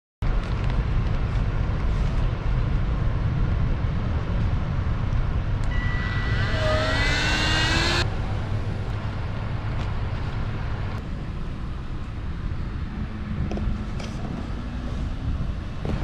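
Low rumble of a jet airliner passing close overhead, with wind on the microphone. For a couple of seconds near the middle, whining engine tones slide upward, then the sound cuts off abruptly and carries on quieter.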